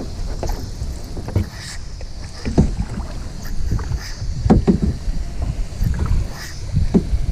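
Kayak paddle strokes dipping and splashing in lake water, one every couple of seconds, over a low rumble of wind on the microphone.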